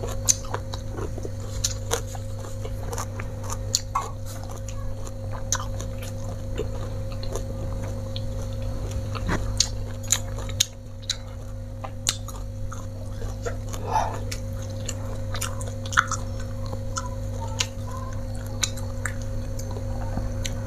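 Close-up chewing of a mouthful of food, with irregular small wet clicks and crunches, over a steady low hum.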